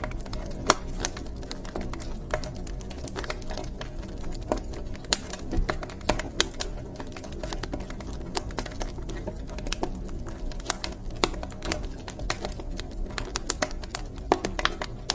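Wood fire crackling in a fireplace: irregular sharp snaps and pops over a steady low rumble of the burning logs.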